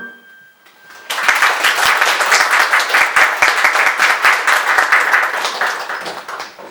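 Audience applauding: a last sung or played note dies away, then the clapping breaks out about a second in and tapers off near the end.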